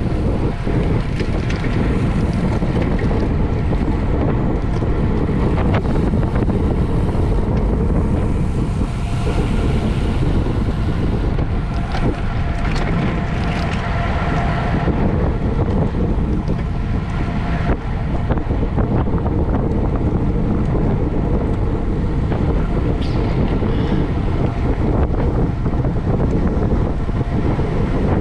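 Loud, steady wind noise buffeting the microphone, a constant low rumble with faint steady tones above it.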